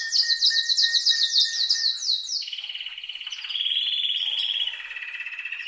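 Canary singing: a fast run of repeated high sweeping notes, then a lower rolling trill from about two and a half seconds in.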